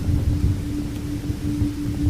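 Low rumble of thunder easing off, under a steady low humming tone.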